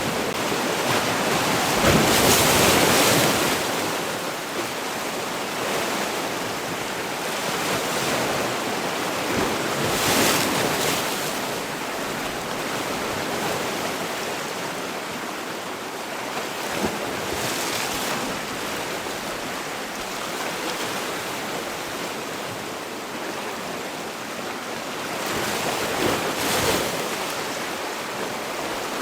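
Sea waves breaking on the shore, a steady wash of surf that swells with a louder break about every eight seconds, near the start, about a third of the way in, past the middle and near the end.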